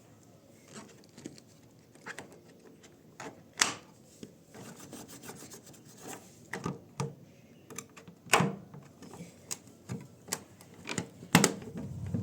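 Irregular clicks and knocks over a faint rubbing, with three louder knocks spread through; hands scrubbing and handling things while cleaning a front-load washing machine.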